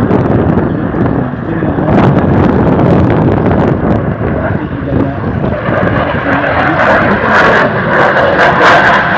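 Dassault Rafale fighter jet's twin turbofans roaring through a low-level display pass. The roar grows louder and harsher from about halfway, with crackling near the end.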